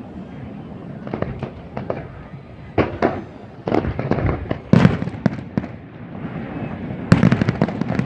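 Fireworks going off in a rapid series of bangs and crackles, the loudest bursts about five seconds in and again near the end.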